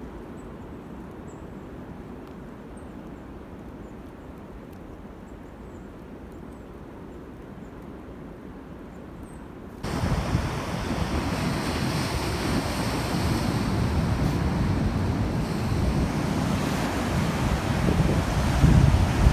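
Quiet forest ambience with a few faint, high bird chirps. About halfway through, a loud, steady rushing noise cuts in abruptly and swells slightly toward the end.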